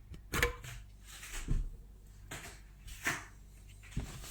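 A few light knocks and handling noises, about one a second, as parts of a microwave are handled and wiped.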